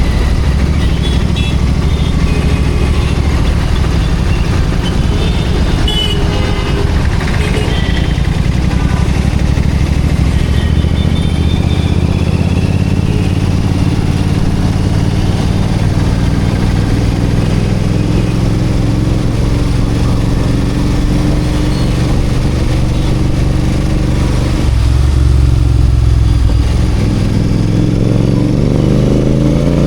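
Royal Enfield Continental GT 650's parallel-twin engine and exhaust running while riding in traffic, with the revs rising near the end.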